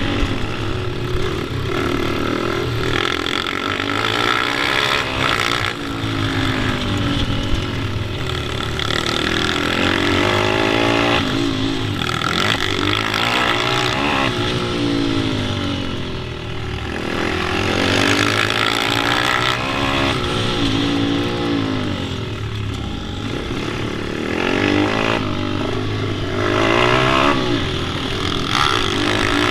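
Pit bike being ridden hard, its small engine revving up and dropping back over and over.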